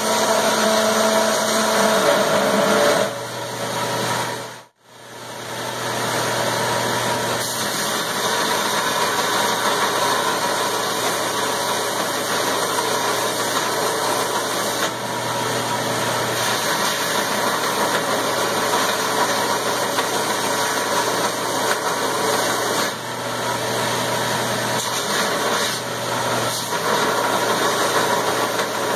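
Electric belt grinder with an 80-grit belt running steadily as steel is ground, a constant whirring hum; the sound drops out sharply for a moment about five seconds in, then runs on.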